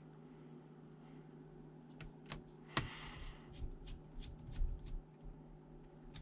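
Hands handling a laptop's plastic parts: a string of light clicks and taps over about three seconds, over a faint steady hum.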